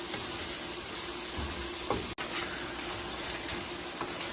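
Chopped onion, cumin and a bay leaf frying in oil in a pan: a steady sizzling hiss, with a faint steady hum underneath and a brief cut-out about two seconds in.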